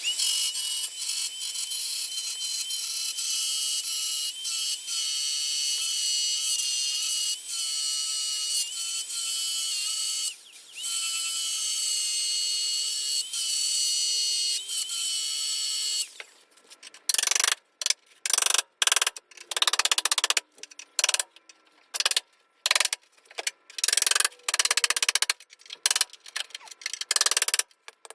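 Power tool spinning bolts out: a steady high-pitched whine with hiss for about sixteen seconds, then a string of short bursts. These are the bolts being removed to take the car's door off and reach a fender bolt.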